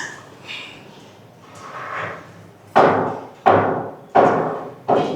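Four sharp knocks in an even rhythm, about one every 0.7 seconds, each ringing briefly before the next.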